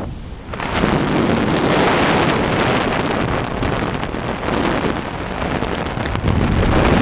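Strong wind blowing across the microphone on the deck of a bulk carrier at sea, a dense rushing noise that dips for about half a second at the start and then holds steady and loud. The wind is a gale of up to 45 knots from the ship's side.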